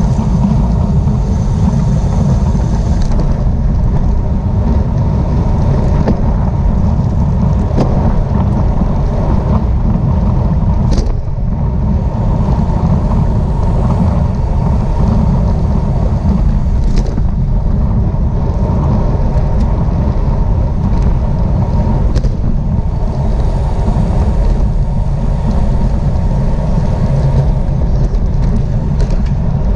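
Steady, loud wind rumble on the microphone of a camera riding on a racing bicycle at speed, over road and tyre noise, with a few brief sharp clicks.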